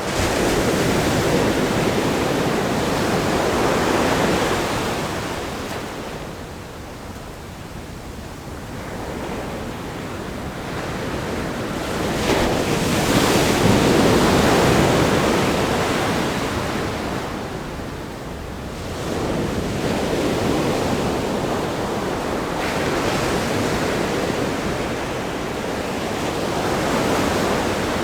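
Ocean waves breaking on a rock groin and washing up a sandy beach, the surf swelling and easing over several seconds, with one louder break about halfway through.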